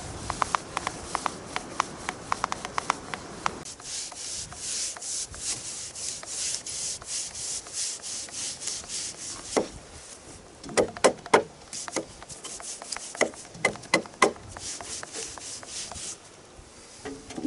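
Paintbrush scrubbing bitumen primer onto a wooden board in quick, rhythmic strokes, about two a second. A run of sharper, louder taps comes about halfway through.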